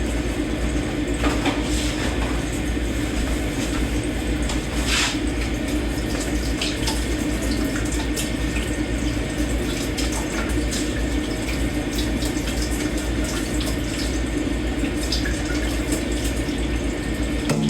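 Tap water running steadily into a kitchen sink as dishes are washed by hand, with occasional light clinks of dishes and cutlery.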